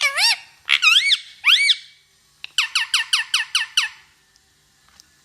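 Parrot calling: three squeaky, swooping whistled notes, then a fast run of about ten short notes, stopping a little before the end.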